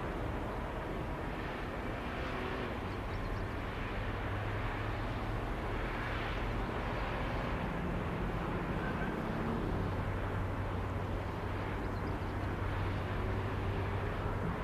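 Steam-hauled train heard from a distance as a steady low rumble, with no distinct chuffs or whistle.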